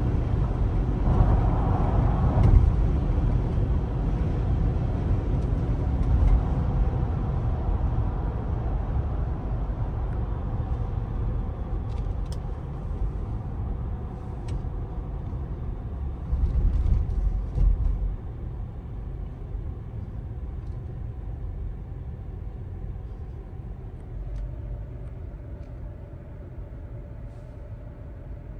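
2011 Cadillac Escalade AWD's V8 running with a low rumble that grows gradually quieter, swelling louder briefly about a second in and again around sixteen seconds in.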